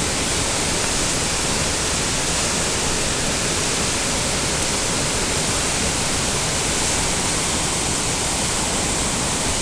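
A river in flood rushing steadily, running high and brown with meltwater from rain falling on snow.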